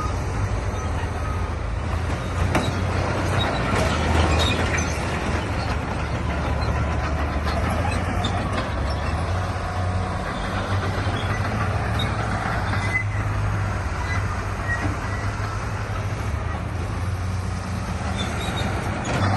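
Heavy diesel earthmoving machinery running steadily with a low engine drone, a little louder about two to four seconds in.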